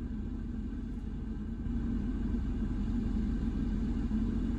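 Steady low mechanical rumble that gets a little louder about two seconds in: a car wash running a cycle by itself with an empty bay, together with an idling car.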